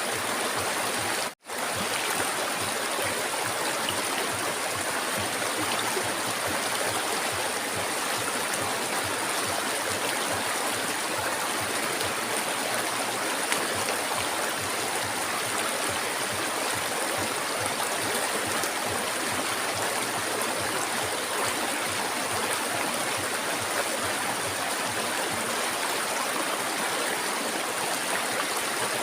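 River water flowing steadily over rocks, an even rushing and gurgling. The sound cuts out for a split second about a second and a half in, then resumes unchanged.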